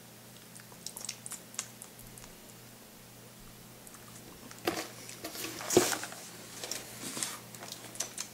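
Person biting and chewing thin, crunchy dried snack sticks. A few light clicks come first, then louder crunches and crackles in the second half.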